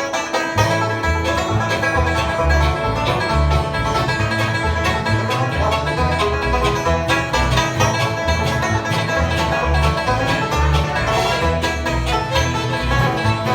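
Live country band playing the instrumental intro of a song: busy plucked strings over a bass line that bounces between two low notes.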